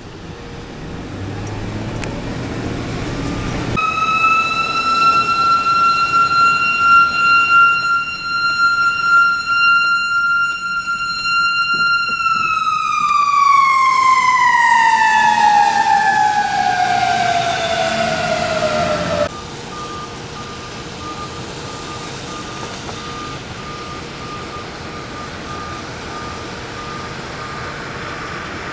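A mechanical siren holding a steady high wail, then winding down, its pitch falling smoothly for several seconds until it cuts off.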